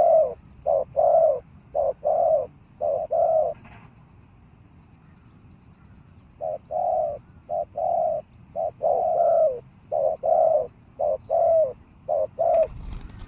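Spotted dove cooing: two phrases of low, repeated coo notes, the first ending about three and a half seconds in and the second starting about six and a half seconds in.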